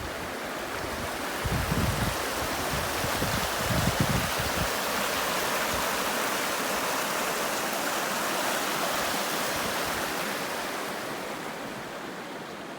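Steady rushing water, swelling through the middle and easing off near the end, with low rumbles in the first few seconds.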